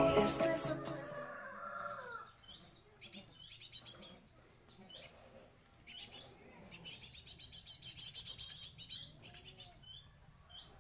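Pet bird chirping in bursts of quick, high chirps. The longest run comes about two-thirds of the way through.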